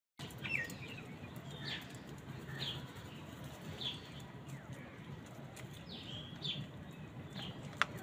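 Short, high bird chirps repeating roughly once a second over a faint outdoor background, with one sharp click near the end.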